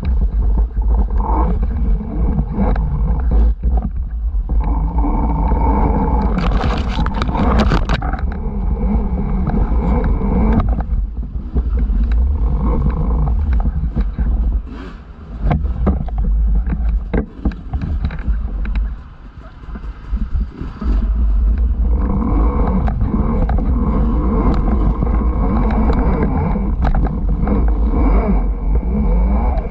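Off-road bike riding heard from a camera on the bike: a heavy low rumble of wind buffeting the microphone over a steady motor drone and tyre and trail noise. The noise drops off briefly twice, about halfway through.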